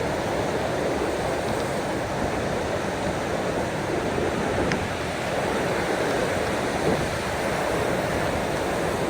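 Ocean waves washing onto the shore, a steady rushing of surf with only slight swells, and a few faint ticks of small splashes.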